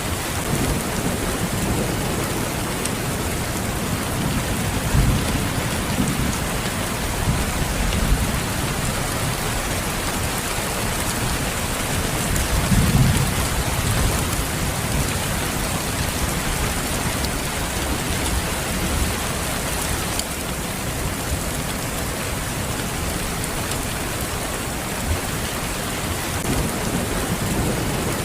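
Steady rain falling, with low thunder rumbling underneath in swells, the strongest about thirteen seconds in.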